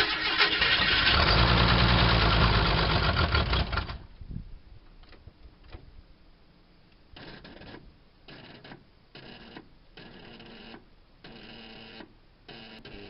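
AMC 232 straight-six being cranked by its starter on a jump box, turning over loudly for about four seconds without catching, then stopping abruptly. Several short, much quieter bursts follow, consistent with the starter struggling on a jump pack too weak to turn it.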